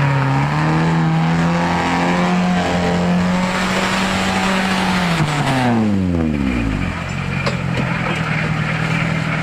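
Vehicle engine held at high revs for about five seconds, then the revs drop away over a couple of seconds and it settles into steady lower running.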